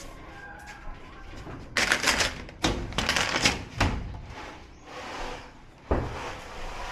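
Thin plastic sheets from a TV's backlight stack being handled and set down: a couple of seconds of rustling and clattering, then a single knock about six seconds in.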